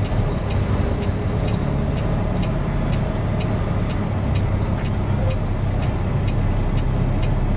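Semi truck's diesel engine running steadily, heard from inside the cab, with the turn signal clicking about twice a second.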